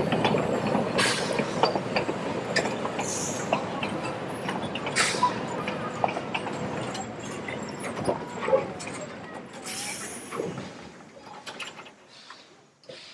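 Puffing Billy narrow-gauge heritage steam train rolling into the station, with scattered clicks and clanks from the running gear. The rumble dies away steadily as the train slows to a stop.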